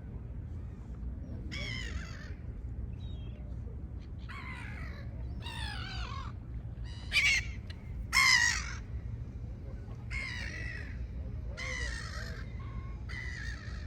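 Gulls calling: a series of harsh calls, one about every second and a half, with two louder ones about seven and eight seconds in.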